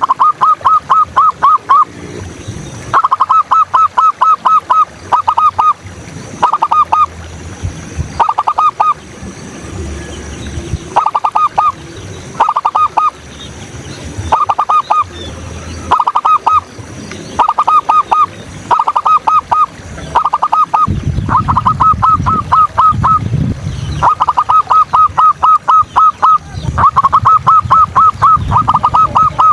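Zebra doves (perkutut) cooing: repeated short bursts of rapid staccato notes, about five or six a second, each burst lasting one to two seconds with brief gaps between.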